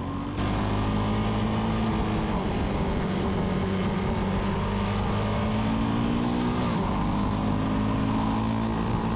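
Suzuki DRZ400S single-cylinder four-stroke dirt bike engine running at a steady riding speed. It picks up about half a second in, and its pitch shifts slightly around three seconds in and again near seven seconds.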